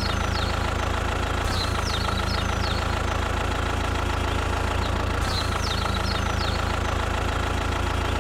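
Tractor engine idling steadily with a fast, even low throb, and small groups of short, high chirps twice.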